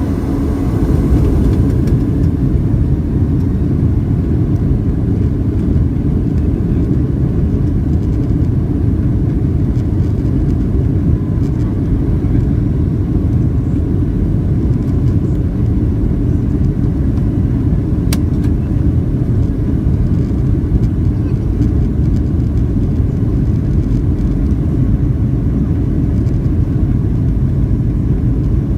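Aircraft engine and cabin noise during take-off: a loud, steady low rumble that holds even throughout, with a single sharp click about 18 seconds in.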